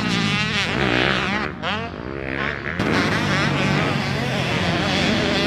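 Motocross dirt bike engine revving, its pitch rising and falling repeatedly as the throttle is worked. About a second and a half in, the engine note drops briefly, then climbs again.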